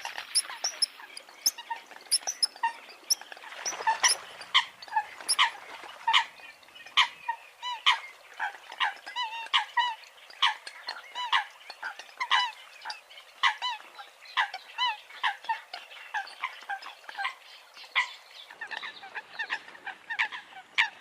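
Eurasian coots calling: a long run of short, sharp, honking calls, roughly two a second.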